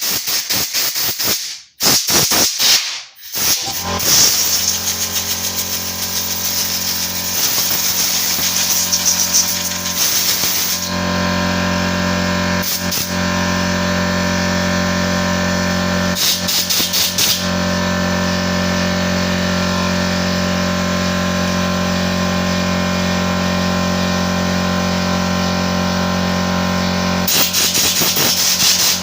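Compressed air blasting through a chainsaw carburetor in noisy hissing bursts: a long run of blasts in the first ten seconds, a short one past the middle and another near the end. A steady low hum starts about a third of the way in and carries on underneath.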